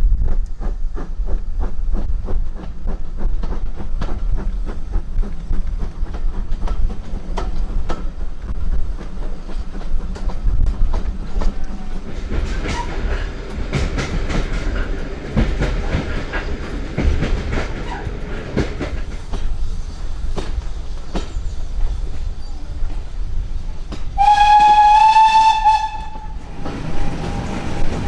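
Heritage train on the East Lancashire Railway running along the line: a low rumble with the wheels clicking rhythmically over the rail joints. Near the end the train sounds one loud, single-pitched warning blast of about two seconds.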